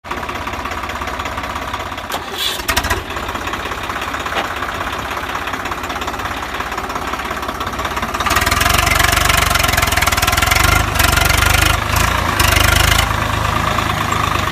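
Farm tractor diesel engine running steadily, growing clearly louder about eight seconds in as it works harder, with a couple of brief louder bumps early on.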